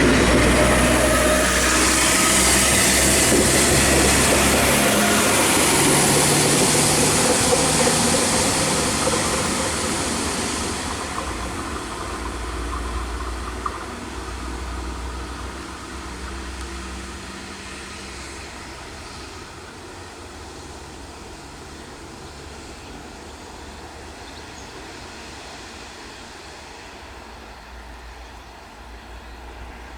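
Diesel train on a single-track branch line passing close and then pulling away: loud rail and engine noise for the first ten seconds or so, fading steadily as it recedes into a faint low hum.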